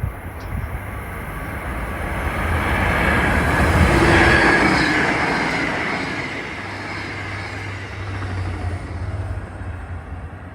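Freight train rolling past, its rumble building to a peak about four seconds in and then easing off.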